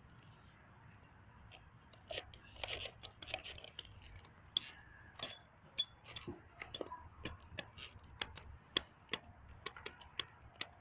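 Irregular small clicks, taps and crunches, about one or two a second with a few sharper ones, as of things being handled and set down.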